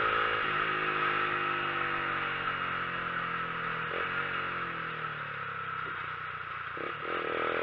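Motorcycle engine heard from the rider's position, its note falling slowly as the bike eases off, then starting to rise again near the end, with steady wind noise.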